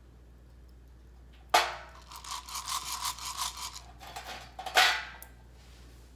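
A sharp metallic knock, then a run of quick rasping shakes as coffee beans rattle in a hand roaster. A second knock comes near the end.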